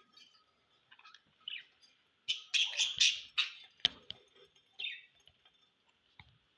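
Budgerigars chirping in short bursts, with a quick run of loud chirps around the middle and a single sharp click just after it.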